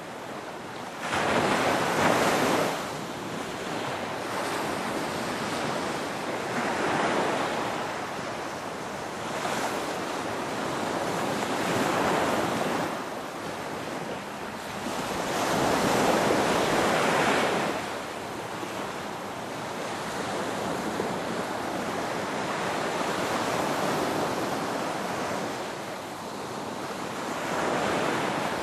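Ocean waves surging and washing in, each wave swelling and falling away, one every few seconds.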